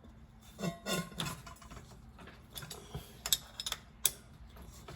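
Wrenches clicking and scraping against the water-line fitting connection as they are set in place to loosen it: scattered sharp metal clicks, several close together about three seconds in.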